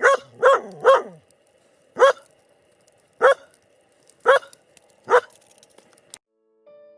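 Irish Setter barking: a quick run of three barks, then four more single barks about a second apart.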